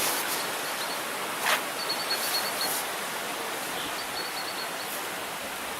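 Steady outdoor rushing noise, with short runs of quick, high chirps repeating twice and a single sharp click about a second and a half in.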